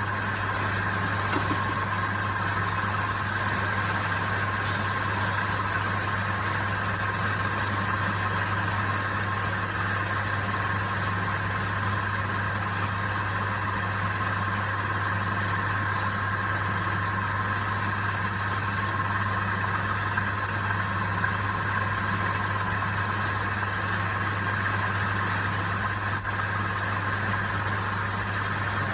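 Wood lathe's electric motor running steadily: a constant low hum with a steady higher whine over it, no change in speed.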